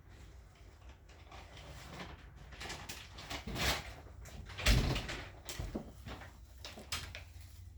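A series of knocks and bumps, several scattered through, with the loudest a little past halfway, over a faint low hum.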